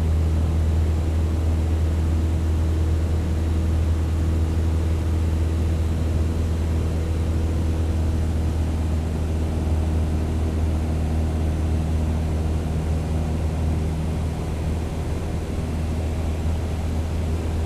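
Propeller plane flying, a steady engine-and-propeller drone with a deep hum, dipping slightly in loudness about three-quarters of the way through.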